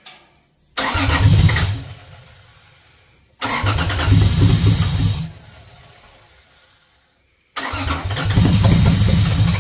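Toyota 2JZ-GE inline-six being started three times in a row. Each attempt bursts in suddenly, fires briefly and dies away; the last runs about three seconds. The engine is starved of fuel: a leaking fuel line keeps it from building enough fuel pressure to keep running.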